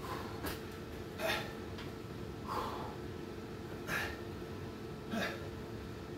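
A man breathing hard and gasping for air after a long set of six-count burpees, about five heavy breaths spaced roughly a second and a half apart.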